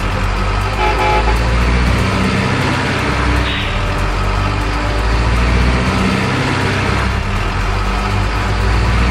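Truck engine sound running steadily, with a short horn toot about a second in.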